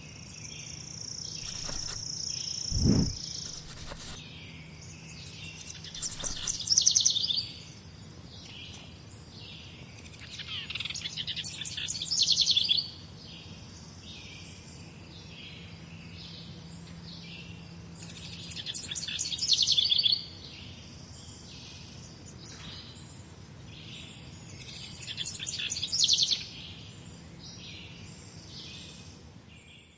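Morning birdsong: one bird repeats a loud song phrase four times, about every six or seven seconds, with fainter chirps between and a held high whistle in the first few seconds. A low steady hum runs underneath, with a soft thump about three seconds in.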